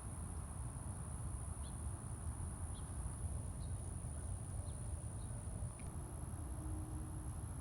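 Wind rumbling on the microphone, with faint short chirps from small birds about once a second.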